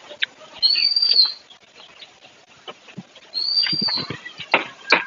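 A bird's high whistled call, one drawn-out note rising and falling, given twice about two and a half seconds apart. A few sharp knocks near the end as the water buckets are set down.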